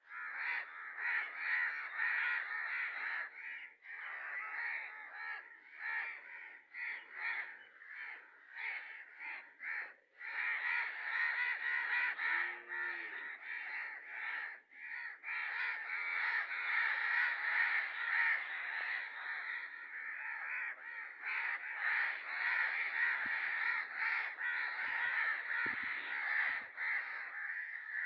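Birds calling almost without pause, in short broken calls for about the first ten seconds, then in a near-continuous stream.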